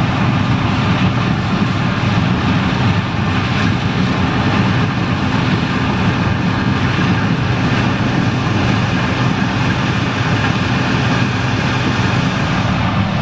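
John Deere 9870STS combine's diesel engine and threshing machinery running steadily while harvesting corn, a constant loud drone with an even engine hum.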